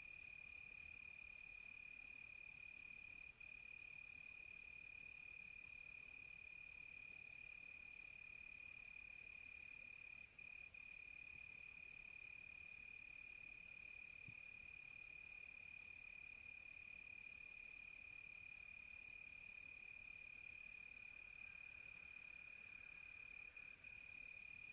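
Faint night chorus of crickets: one steady high continuous trill, with shorter evenly repeated chirps above it. A higher buzzing layer of insects joins about four seconds in and drops out near the end.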